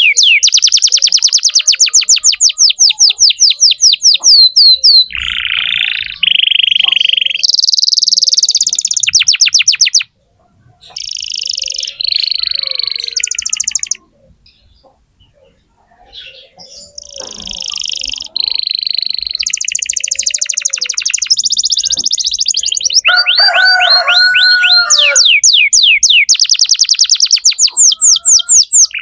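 Domestic canary singing a loud song of fast trills, each a run of rapidly repeated notes, switching from one roll to another at different pitches, with two brief pauses near the middle.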